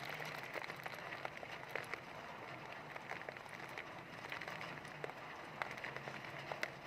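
Heavy rain falling steadily, a constant hiss with many separate sharp drop impacts scattered through it.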